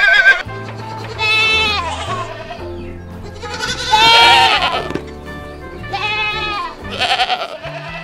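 Goats bleating, about five separate calls, the loudest about four seconds in, over background music.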